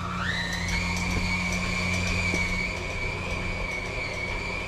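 Electric stand mixer switched up to high speed, its motor whine rising in pitch in the first half second and then running steadily while it mixes a thick meatloaf mixture.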